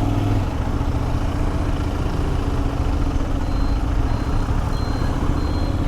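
Benelli 752S motorcycle's parallel-twin engine running steadily at low revs, with no change in pitch.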